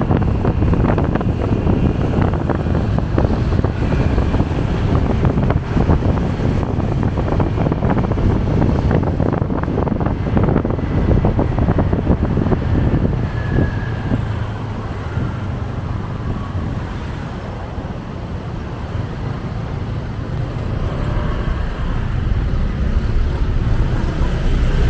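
Wind buffeting the microphone of a moving motorcycle, over engine and city traffic noise. It eases for several seconds past the middle, then builds again near the end.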